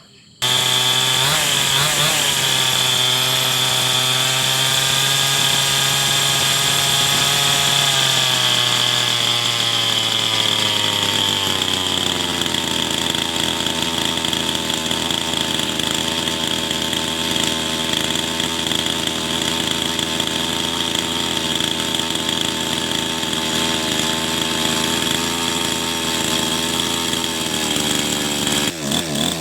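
Small petrol engine running on the carburettor being tested. It comes in abruptly and holds a raised speed for several seconds, then slows over a few seconds to a steady lower idle, which it holds until near the end.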